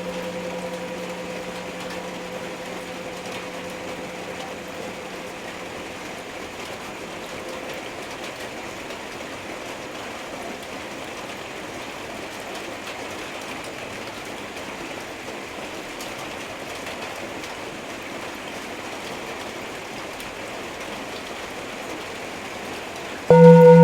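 A Tibetan singing bowl's ringing dies away over the first several seconds, leaving steady heavy rain. Near the end a singing bowl is struck and rings out loud, its low tone pulsing in a steady wobble.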